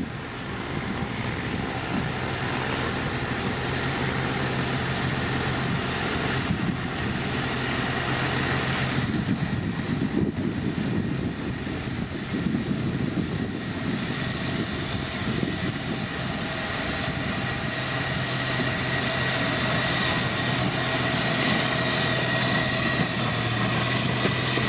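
Diesel engine of heavy road-building machinery running steadily under load, with a low engine hum and a thin high whine above it.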